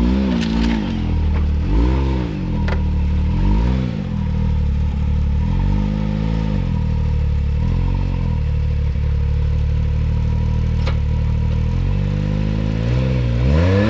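Can-Am X3 turbo side-by-side engine revving in repeated rising-and-falling blips as the machine works up a rough rock ledge. It holds steadier for a few seconds, then revs up again near the end.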